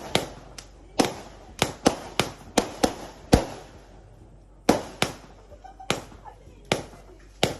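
A 120-shot fan-pattern firework cake with 0.8-inch tubes firing a rapid, uneven string of sharp bangs, about two to three a second, with a pause of about a second past the middle.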